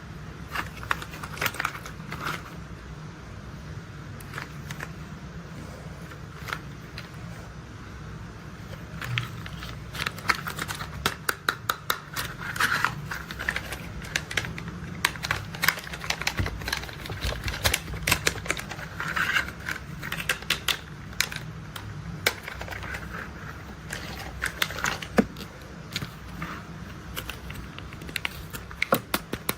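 Hard plastic toy construction vehicles being handled: irregular clicks and clatters, sparse at first and coming thick and fast from about a third of the way in, over a steady low hum.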